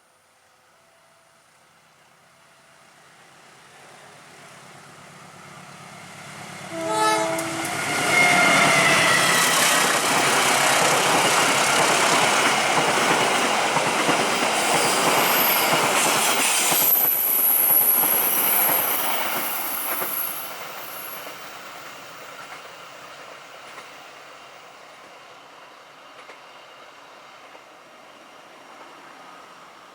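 Train approaching and passing: a short horn blast about seven seconds in, then a loud rumble of wheels on rail for about twelve seconds with a high squeal near the middle, fading away afterwards.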